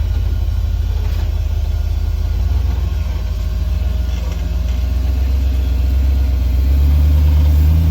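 Off-road 4x4 engine running at low revs with a deep rumble; about two-thirds of the way in the revs rise and it gets louder, as if the vehicle is being driven up over rocks.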